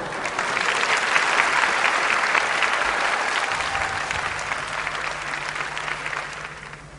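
Studio audience applauding. The clapping swells within the first second and fades away near the end.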